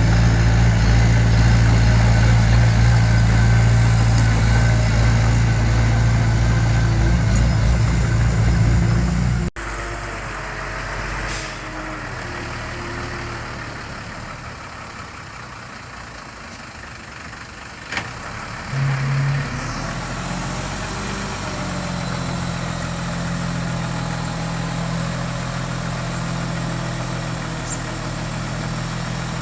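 Diesel engine of heavy construction machinery running steadily and loudly, then an abrupt cut about a third of the way in to a quieter engine, with a sharp click and a brief low tone near the middle before the engine runs on steadily.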